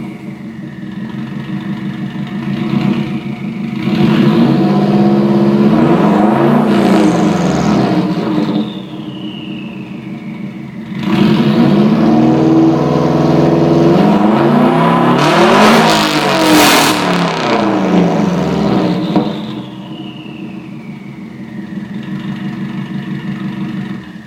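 Straight-piped 2005 Subaru WRX turbocharged flat-four idling, then revved twice: a first rev held for a few seconds and a longer second one with several blips, each time dropping back to idle. After each rev a high whistle falls slowly in pitch.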